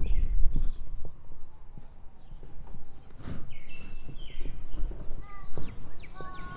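Birds singing in short repeated whistled phrases, with a sharper, richer call about five seconds in, over a steady low rumble.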